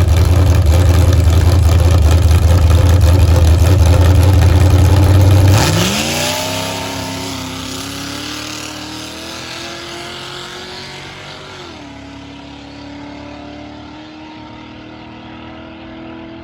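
Carbureted V8 drag car held at high revs close by, then launching and pulling away down the strip. Its pitch sweeps up and climbs steadily as it fades into the distance, with a drop in pitch about twelve seconds in like a gear shift. The owner says the engine was running severely rich on this pass.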